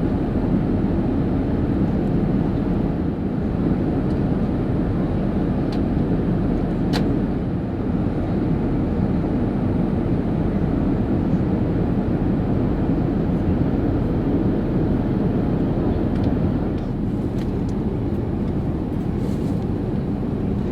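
Steady cabin noise of an Airbus A380 in flight: an even rush of engine and airflow noise, mostly low, with a faint click about seven seconds in.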